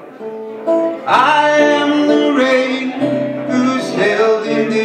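Live music: an acoustic guitar picking single notes, joined about a second in by fuller strumming and a male voice singing.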